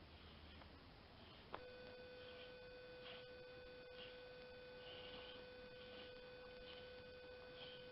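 Near silence with a faint steady electrical hum or whine that switches on with a click about one and a half seconds in and holds one unchanging pitch.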